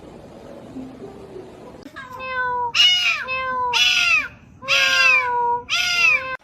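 A cat meowing repeatedly, about five meows in quick succession starting about two seconds in, each one rising and then falling in pitch.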